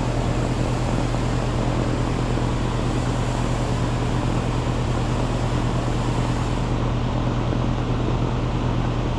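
Air-conditioning condensing unit running: the condenser fan's steady rush of air over the compressor's constant low hum.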